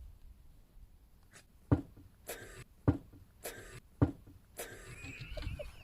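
A run of about seven sharp knocks, roughly one every half second, then a faint high wavering sound near the end.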